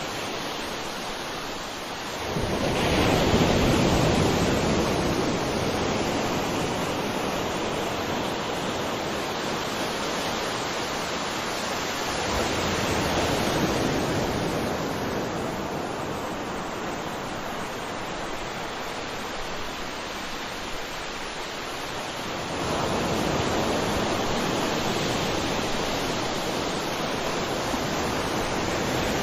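Ocean waves breaking and washing on a shore, a steady rush of surf that swells with a new wave about three seconds in, again around the middle, and once more near the end.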